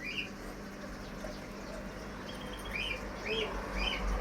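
Small birds chirping: short rising-and-falling chirps, one at the start and a quick run of three in the last second and a half, over a steady low hum.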